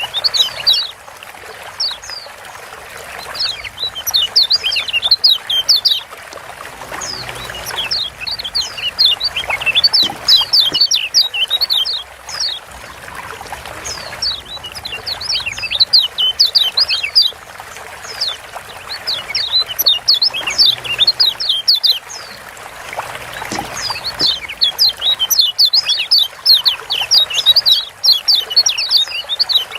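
Kecial kuning (Lombok yellow white-eye) giving rapid, sharp 'ciak' chirps in bursts of about two to three seconds, repeating after short pauses, over a steady trickle of water.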